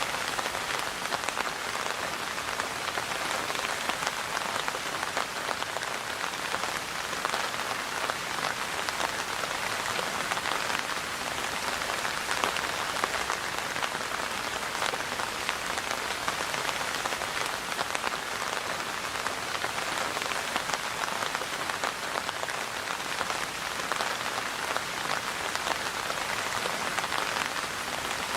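Steady rain falling on a surface, a dense even patter of many drops with no letup.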